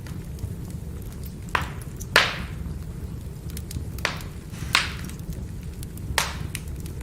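Firewood burning: a steady low rumble with scattered small crackles and five sharp pops, the loudest a little over two seconds in.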